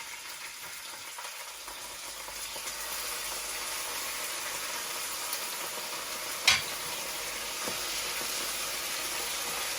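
Chicken frying in a hot pan: a steady sizzle that grows louder over the first few seconds and then holds. One sharp knock, likely a utensil against the pan, comes about two-thirds of the way through, with a fainter one about a second later.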